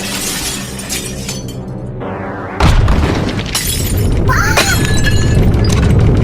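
Background music, then a sudden loud crash with glass shattering about two and a half seconds in, continuing under the music.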